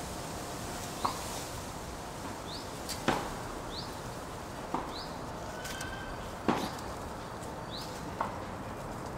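A small bird repeats a short, high rising chirp about every second and a half over steady outdoor background noise. About five sharp clicks or snaps stand out among the chirps, two of them louder than the rest.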